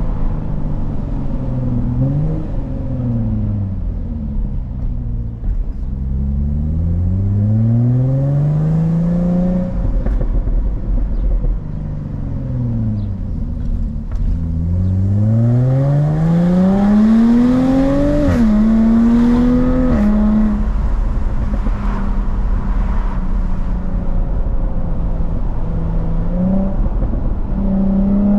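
Jaguar F-Type S's 3.0-litre supercharged V6 engine and exhaust under hard acceleration: the revs climb in two long rising sweeps, falling away after the first and dropping sharply at an upshift after the second, then the engine holds a steady pitch at cruise for the last several seconds.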